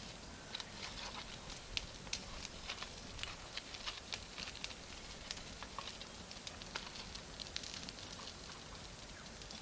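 Bonfire of cut charcoal and firewood crackling: irregular sharp pops and snaps, several a second, over a soft hiss.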